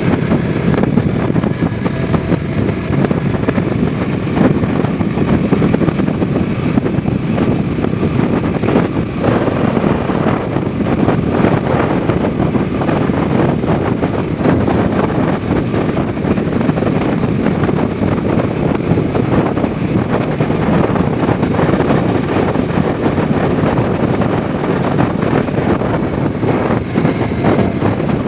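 Bajaj Dominar 400's 373 cc single-cylinder engine and exhaust running steadily while the motorcycle is ridden, heard from the rider's position with wind rush on the microphone.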